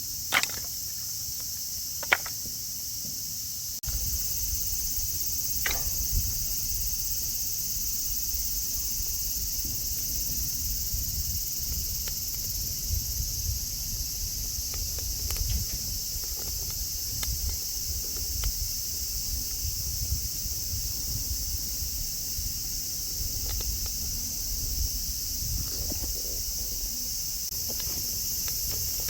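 A steady, high-pitched chorus of insects such as crickets or cicadas. It is broken by a few sharp clicks in the first seconds, and a low rumble joins it from about four seconds in.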